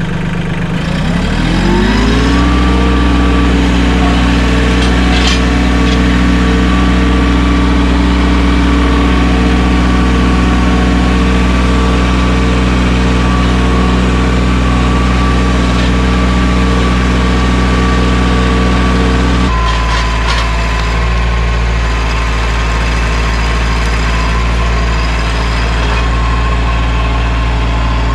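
Mahindra 1626 sub-compact tractor's diesel engine revving up from idle over the first couple of seconds and then running steadily at high revs. About twenty seconds in, its note changes and steps down slightly.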